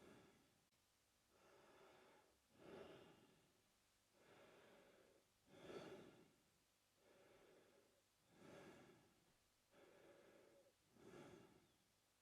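A man breathing in and out through his mouth, slow and steady: quiet, even breaths in pairs, a longer softer breath followed by a shorter louder one, about four full breaths.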